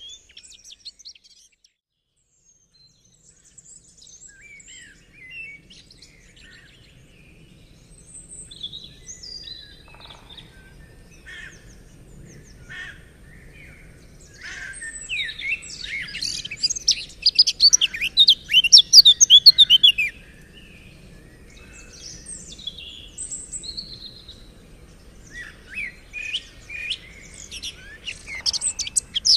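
Songbirds chirping and singing, with scattered calls building to a loud, rapid run of song midway that lasts about five seconds, then more song starting near the end.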